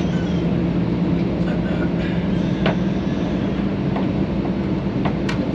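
Steady cabin noise of a Boeing 737-800 in flight on approach: engine and airflow drone with a constant low hum, broken by a few light clicks.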